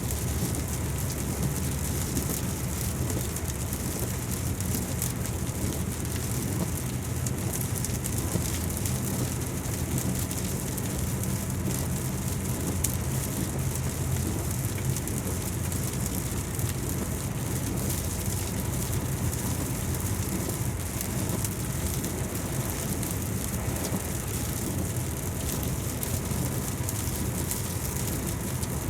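Steady rain falling, with many small drop impacts, and a steady low rumble beneath.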